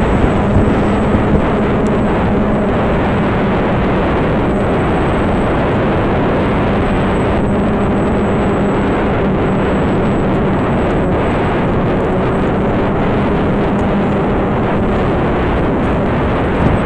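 Strong wind buffeting the microphone, a steady loud rush, with a faint steady low hum underneath.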